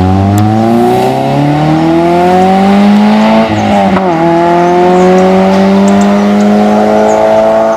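Citroën Saxo rally car's engine running hard under acceleration, its pitch climbing for about three and a half seconds. The pitch then drops sharply at an upshift and climbs slowly again in the next gear.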